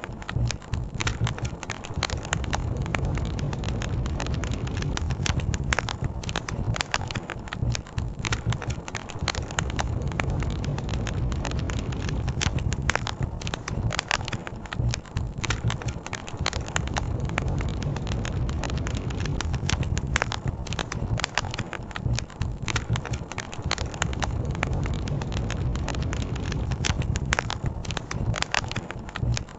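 Wood campfire crackling, with frequent irregular pops and snaps, over a steady low rush of flowing river water.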